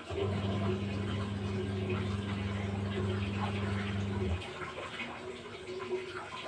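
Light drizzle falling, a steady patter-like hiss. Over it, a low steady hum that cuts off after about four seconds.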